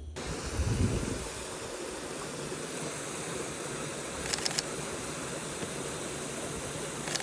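Steady rushing of a waterfall, an even hiss with no rhythm. There is a low thump of the phone being handled under a second in, and a few sharp clicks about four seconds in and near the end.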